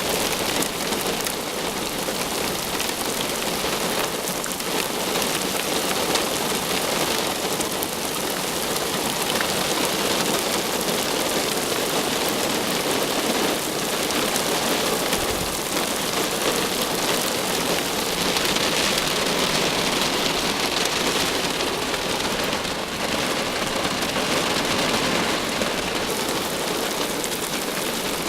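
Heavy thunderstorm rain falling steadily and evenly on a hard surface.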